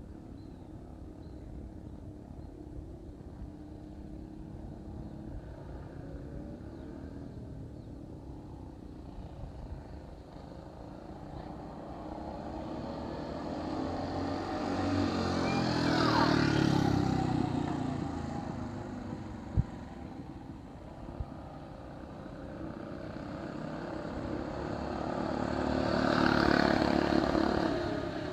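Small engine of a vintage racing minibike or go-kart passing by twice. Each time it grows louder as it approaches and fades as it goes away, with the pitch dropping as it passes. The first pass peaks about halfway through and the second near the end.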